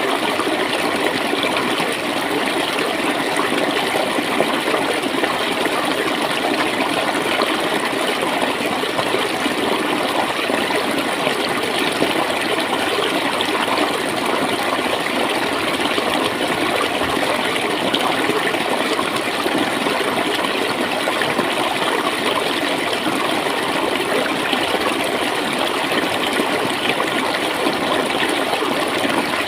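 Clear water flowing and gurgling steadily, a continuous rushing with no pauses.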